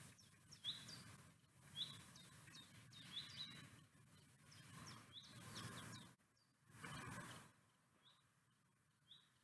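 Small birds chirping faintly in short, high repeated notes, about one a second, over a soft rushing noise that swells twice in the second half.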